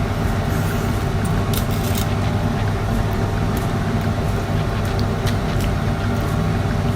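A steady low machine hum, with scattered small clicks and crackles of prawns being peeled and chewed by hand.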